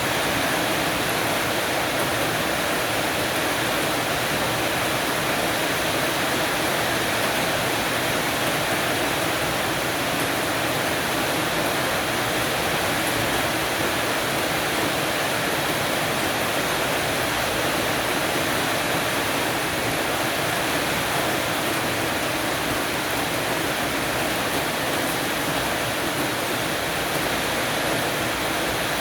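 Heavy shower of rain falling on a porch roof, a steady, unbroken hiss.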